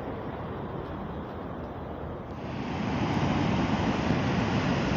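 Surf from a rough sea washing ashore, with wind buffeting the microphone. About two and a half seconds in, a larger wave comes in and the rush grows louder.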